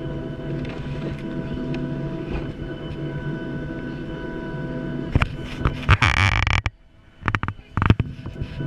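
Boeing 737-800 cabin noise: a steady low rumble with a constant engine whine. About five seconds in come several sharp knocks and a loud rushing scrape. Near seven seconds the sound drops away abruptly, followed by more knocks.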